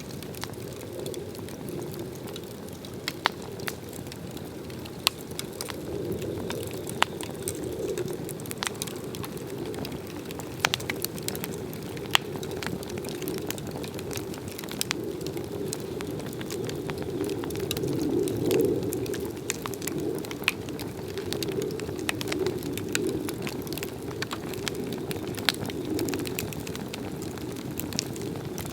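A Swedish torch log burning: a steady rush of flame with many sharp crackles and pops scattered through it.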